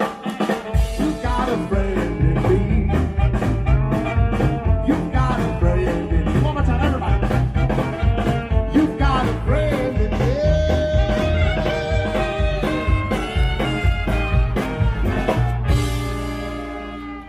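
Live swing band playing an up-tempo instrumental passage, with a steady drum beat under long held notes; the music dies away near the end.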